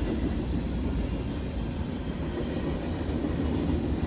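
Empty rubbish train's freight cars rolling past: a steady, low rumble.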